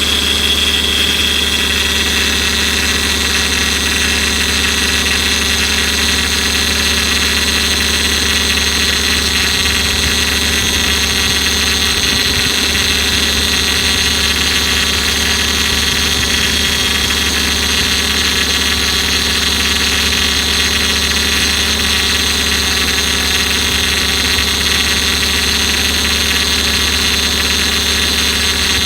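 Toyota Altezza engine idling with a steady high-pitched whine from the power-steering vane pump that rises a little in pitch near the start and then holds. The noise comes from a failing power-steering pump; it stopped once the pump was replaced.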